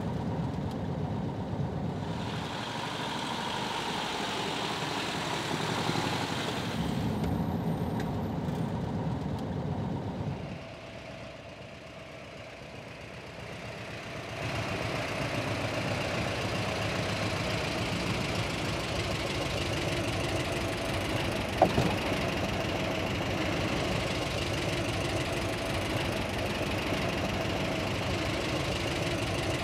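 Classic Volkswagen Beetle's air-cooled flat-four engine running. It drops quieter for a few seconds about a third of the way in, then idles steadily, with one sharp click about two-thirds of the way through.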